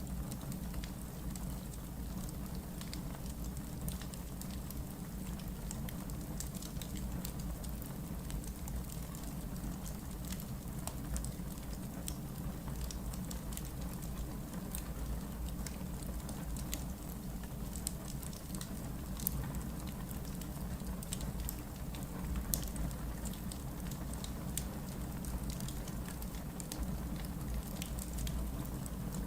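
Wood fire burning in a fireplace: a steady low rumble and hiss of flames with scattered crackles and small pops from the burning logs, a couple of them louder.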